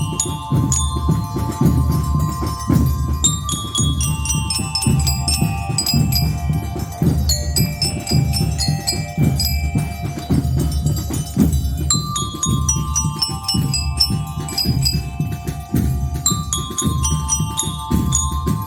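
Marching band playing with bell lyres carrying the melody over drums: runs of bright bell-like notes stepping downward, repeated several times, with steady drumming underneath.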